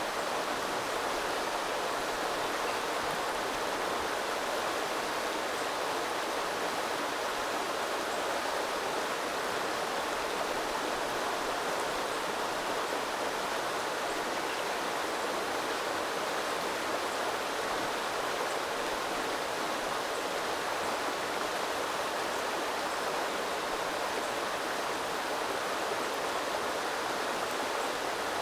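Small river flowing and burbling, a steady rushing of water that does not change.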